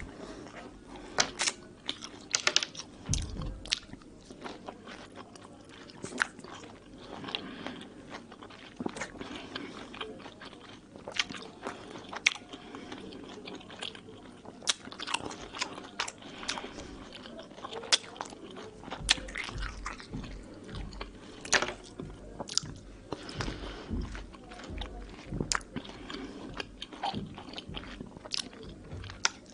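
A person biting and chewing peeled mandarin segments, giving wet, juicy chewing with many sharp crackles at irregular intervals.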